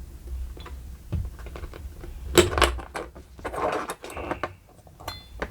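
Small metal clicks and clatter of a TPOB Psycho Blade trimmer blade and its spring being worked back into place by hand. A louder cluster of clicks comes about two and a half seconds in, and a short metallic ring comes near the end.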